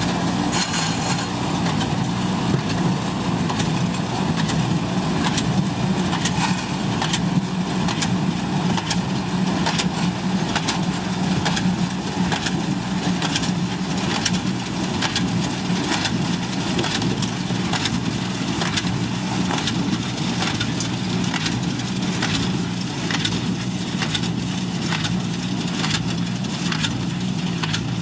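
Tractor engine running steadily under load while pulling a hay baler, with sharp regular knocks about once a second from the baler's working mechanism.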